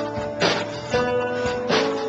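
Acoustic guitar strumming chords in an instrumental passage of a live song, three strokes, each left ringing.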